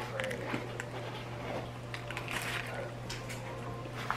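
A person biting into and chewing a mouthful of hamburger close to the microphone, with scattered small mouth clicks over a steady low hum.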